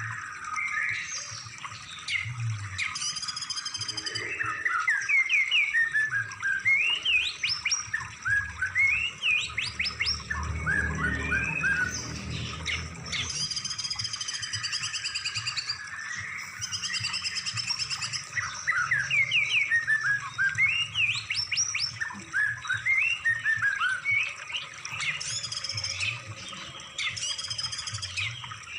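Several songbirds singing over each other on a compiled song-tutoring (masteran) recording: runs of quick rising whistled notes over high, steady trills.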